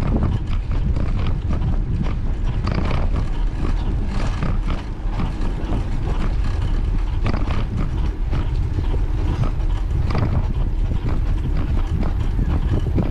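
Riding a bicycle along a path: a steady low rumble of wind on the microphone and tyres on the surface, with irregular clicks and knocks as the bike rattles over bumps.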